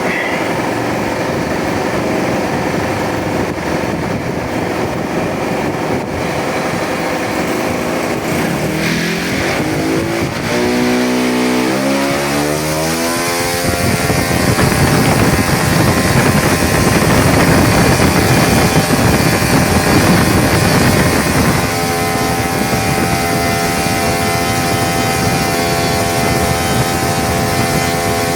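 O.S. .56 Alfa four-stroke glow engine running on a static thrust test with a 13x4 propeller, throttled up with a rising pitch from about eight seconds in to full throttle around thirteen seconds, held loud for several seconds, then eased back a little to a steady note about twenty-two seconds in.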